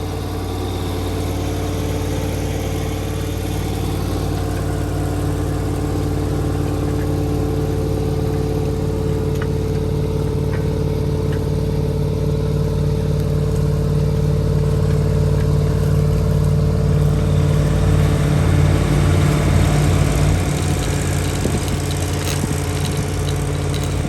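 V8 diesel tractor engine running steadily at a constant speed, slowly growing louder, with the sound becoming rougher and more uneven about 20 seconds in.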